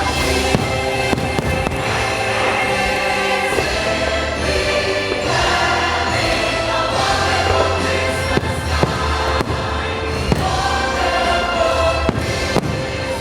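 Christmas fireworks-show music with a choir singing, over repeated bangs of fireworks bursting throughout.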